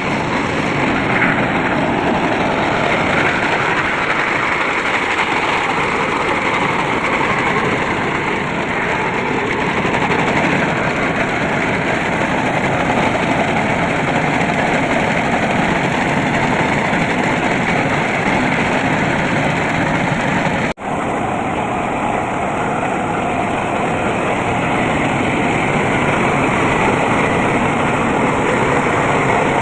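Tractor engine running steadily. The sound drops out for an instant about 21 seconds in.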